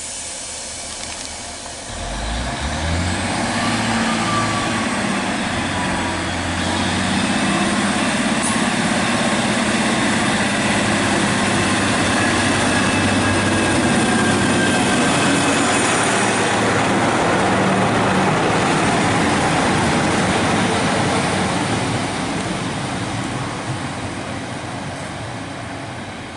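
Diesel train running through the station: its engine note rises about two seconds in, then a steady rumble that fades near the end.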